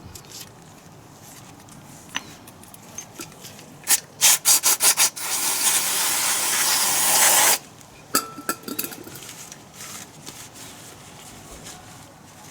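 Hand work on a part: a quick run of about six rubbing strokes, then a steady hiss lasting about two and a half seconds that stops suddenly, amid light handling clicks.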